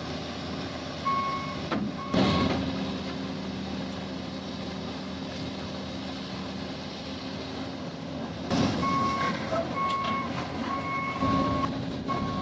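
A heavy diesel machine engine runs steadily while a reversing/travel alarm gives short beeps. It beeps twice early on, falls quiet for several seconds, then beeps about once a second from about nine seconds in. Heavy clanks come about two seconds in, again near eight and a half seconds, and once more near eleven seconds, as steel shifts under load.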